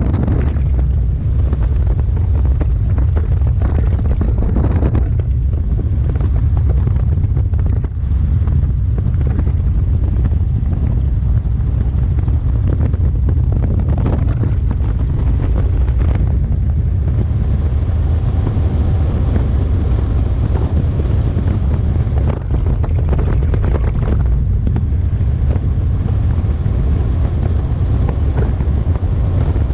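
Robinson R44 helicopter heard from on board with the doors off: its engine and rotor running steadily in a loud, low rumble, with wind buffeting the microphone.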